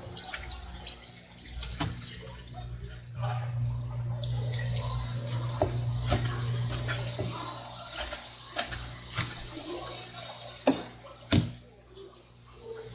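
Tap water running and splashing into a sink, as a flounder is rinsed during cleaning, with scattered sharp knocks and two loud ones near the end.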